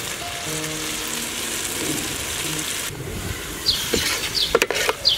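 Tomato-onion masala sizzling in hot oil in a steel pot as chili powder is stirred in. A perforated steel ladle clinks and scrapes against the pot a few times about four seconds in, and a bird chirps repeatedly in the background.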